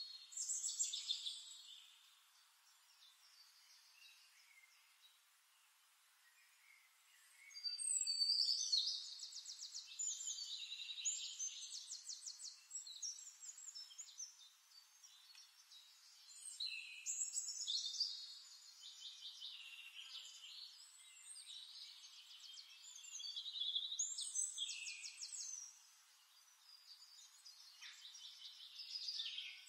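Birds singing: high, rapid trilling phrases a few seconds long, coming four or five times, with faint hiss between them.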